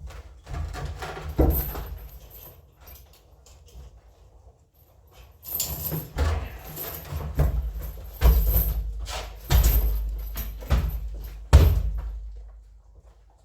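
A series of heavy thumps and bangs, about eight of them, irregularly spaced and each dying away over about half a second, the loudest near the end.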